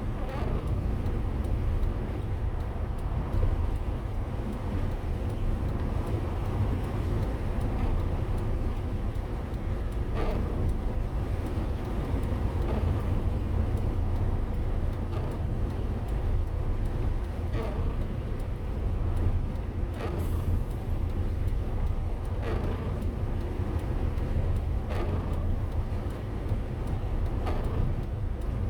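Motorhome driving on the road, heard from inside: a steady low rumble of engine and tyres, with faint short knocks about every two and a half seconds from about ten seconds in.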